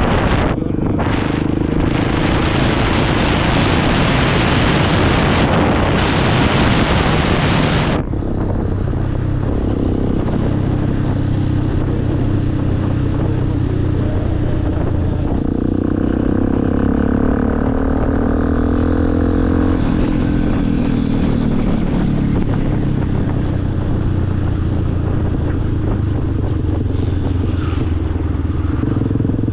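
Motorcycle engine running steadily under way. A loud rushing hiss covers the first eight seconds and cuts off suddenly. About halfway through, the engine pitch rises and falls briefly.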